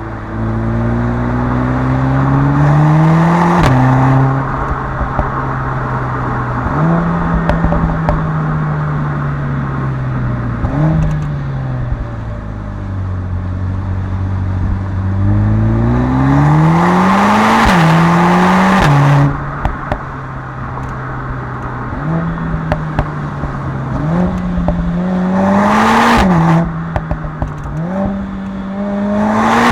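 Mercedes-AMG A45 S's turbocharged 2.0-litre four-cylinder engine and exhaust during a hard drive: the engine pitch climbs and then drops sharply at each upshift, several times over, with a stretch of slowing engine note in between. The loudest full-throttle pulls come about halfway through and near the end.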